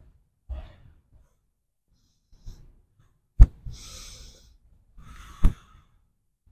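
A person's heavy, hissing breaths, with two sharp knocks about two seconds apart in the middle of the stretch, the first the loudest.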